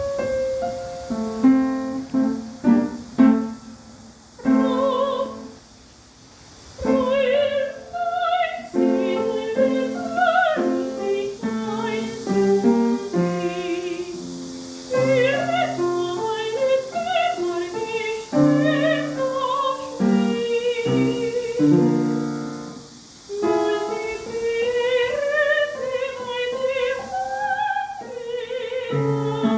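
A woman singing in an operatic style with wide vibrato, accompanied by piano.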